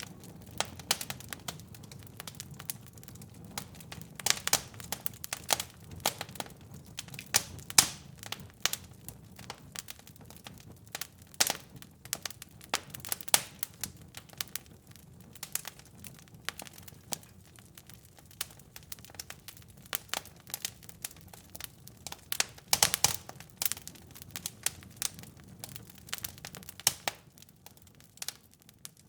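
Fireplace fire crackling: dense, irregular sharp pops and snaps over a faint low rumble, with a few louder pops, one about eight seconds in and a cluster near twenty-three seconds.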